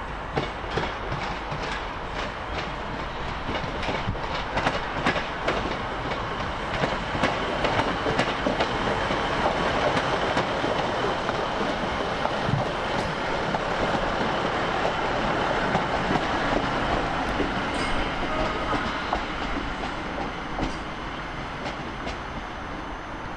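A passenger train moving through the station, its wheels clicking over rail joints and pointwork. The sound builds toward the middle and eases off near the end.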